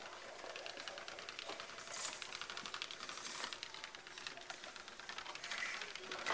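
Child's plastic ride-on toy motorcycle rolling and turning, its wheels clicking rapidly and evenly.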